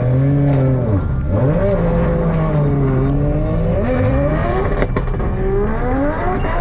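Nissan 350Z's V6 engine heard from inside the cabin, revving up and dropping back several times as the car moves off, with a long climb in revs near the end.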